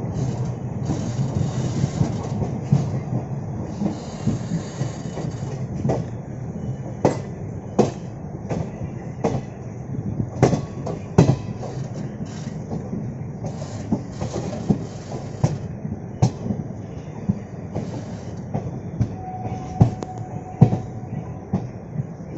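Passenger train running on the track: a steady rumble with sharp, irregular clacks of the wheels over rail joints. A short steady tone sounds near the end.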